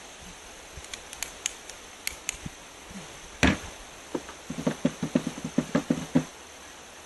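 Handling noise: scattered light clicks, a louder knock about three and a half seconds in, then a quick run of about a dozen small knocks.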